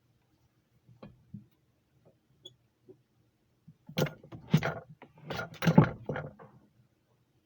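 A few faint clicks, then about four seconds in a quick run of knocks and rattling clatter, as of hard objects being handled, lasting about two and a half seconds.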